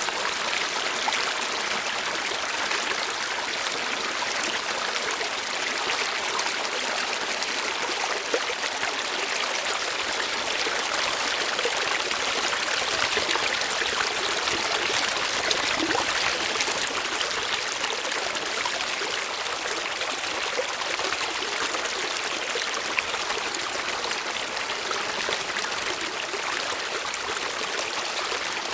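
Water flowing steadily, an even continuous rush with small splashes throughout.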